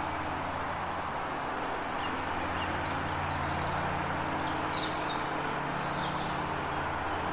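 Steady hum of distant road traffic, with a few short, high bird chirps between about two and six seconds in.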